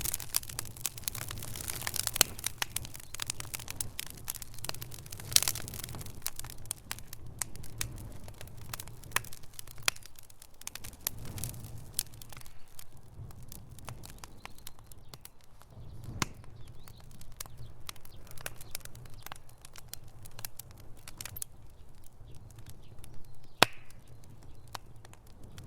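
Wood fire crackling in a fireplace: a continual run of sharp pops and snaps over a low rumble of flames, busier in the first half, with one loud pop near the end.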